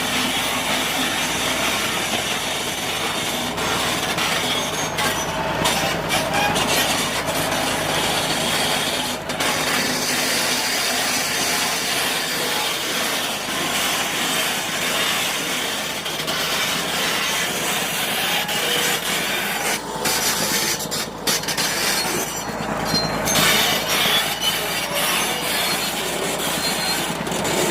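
Bulldozer at work clearing ground: its diesel engine running and its steel tracks moving, making a loud, steady din without a break.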